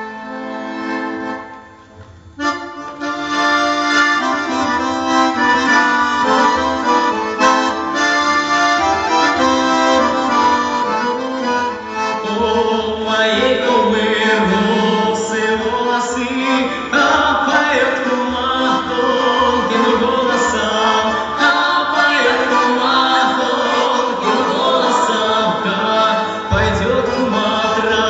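Accordion playing an instrumental passage of a folk-style song: a held chord at first, then from about two seconds in a fuller, steady stream of melody over sustained chords.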